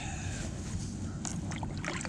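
Choppy sea water sloshing against a kayak hull, over a steady low rumble, with a few small sharp knocks about a second in and near the end.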